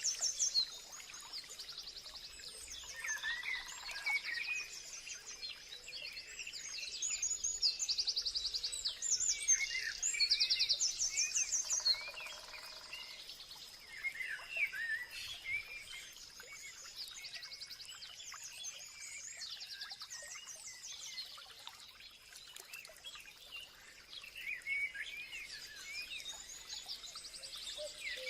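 Several birds chirping and singing at once, with many short, quickly repeated trills overlapping. A thin steady high tone runs underneath.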